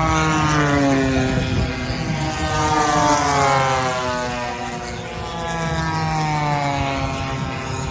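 Propeller-driven RC warbird model's engine during a fast fly-by, its note dropping in pitch as it passes, loudest about a second in and again around three seconds in.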